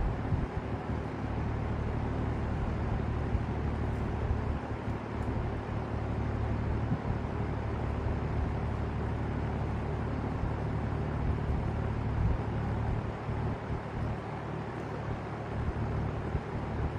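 Vintage LAU Ultra Twenty 20-inch box fan running: a steady rush of air over a low hum, with an uneven low rumble.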